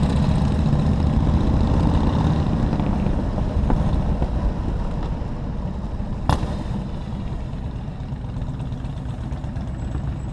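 Motorcycle engine running steadily, with one sharp knock about six seconds in.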